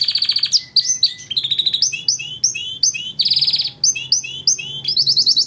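Domestic canary singing: fast rolling trills of rapidly repeated high notes, alternating with phrases of separate sweeping chirps, and a new trill beginning near the end.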